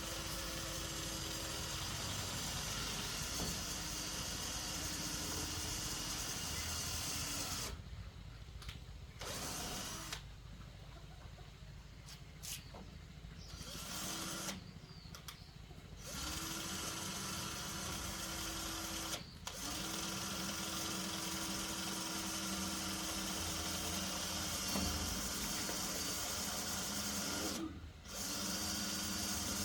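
Small power tool motor running steadily with a held hum, in stretches that break off abruptly several times.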